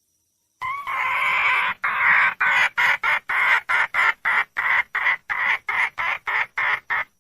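Red junglefowl hen calling for a male: one long harsh squawk, then a rapid run of short cackling notes, about three a second, that stops abruptly.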